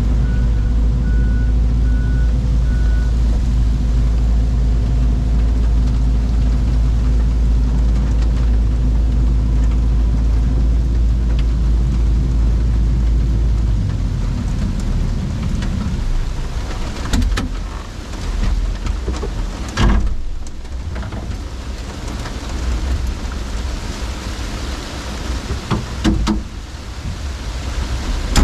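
A heavy diesel engine running steadily, with a backup alarm beeping for the first few seconds. About halfway through the engine drops away; a few sharp knocks and crashes follow over the steady hiss of falling rain.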